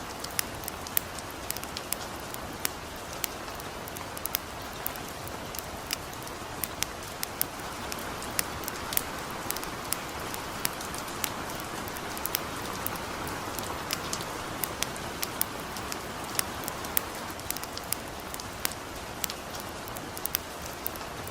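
Steady hiss of light rain, with frequent sharp, irregular crackles and pops from a campfire.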